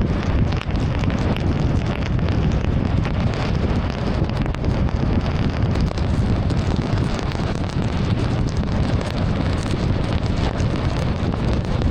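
A car driving through heavy rain: a steady, loud rush of rain, tyre spray off the wet road and wind noise on the microphone, heaviest in the low rumble, with no clear breaks.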